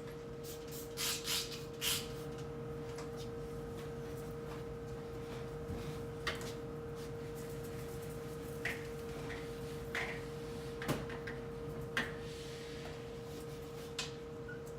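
Items and fittings being handled inside a refrigerator during cleaning: a scattering of short knocks and clatters, a cluster in the first two seconds and then single ones every second or two, over a steady hum.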